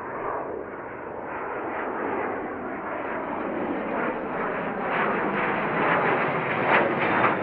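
Fixed-wing aircraft engine noise, a steady rush that grows gradually louder.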